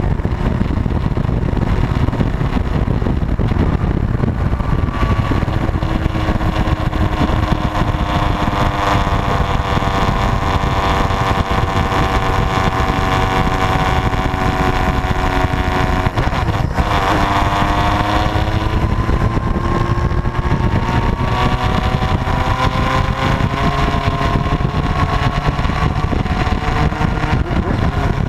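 Motorcycle engine running on the move, its pitch slowly rising and falling with speed and dipping sharply once past the middle, over a heavy wind rumble on the microphone.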